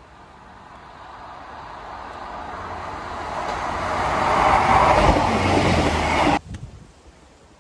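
Diesel multiple unit train approaching and passing along the platform, its engine and wheel noise growing steadily louder as it comes close, then cutting off suddenly about six seconds in.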